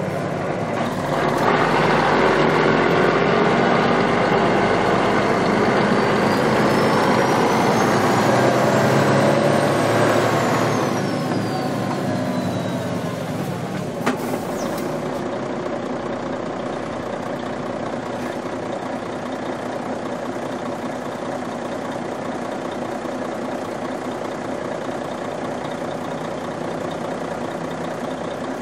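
Truck engine recorded close, pulling hard for about ten seconds with a high whistle that rises and then falls, then easing off. A single sharp click about fourteen seconds in, then the engine running steadily at a lower level.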